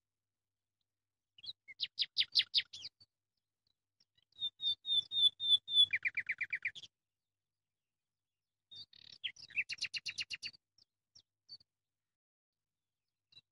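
A small songbird singing three short phrases of rapid chirps and trills, a few seconds apart.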